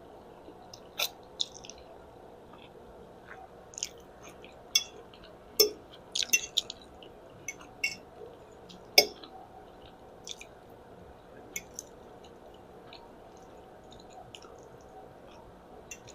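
Close-miked mouth sounds of eating spaghetti: chewing with short, irregular wet clicks and smacks, a couple of them louder.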